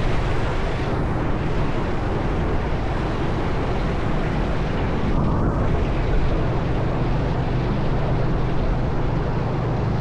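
Motorbike riding along a road: a steady low engine drone under heavy wind rush over the microphone.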